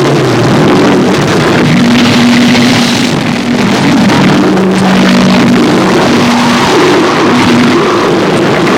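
Noise music: a loud, dense wall of noise across the whole range, with low droning tones that step between two pitches every second or two.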